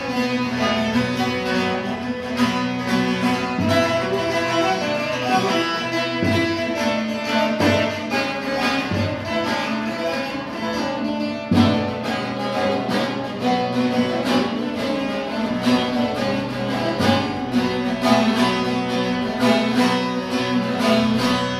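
Instrumental music on a bağlama (saz), plucked notes of a melody over steady low sustained tones.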